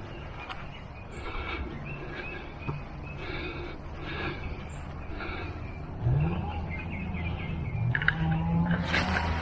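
Birds chirping in short repeated calls, with a motor vehicle's engine hum coming up about six seconds in and growing louder toward the end.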